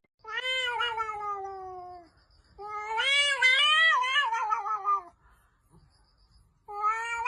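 A cat giving long, drawn-out meows, three in a row. The first slides down in pitch, the second wavers up and down, and the third begins near the end.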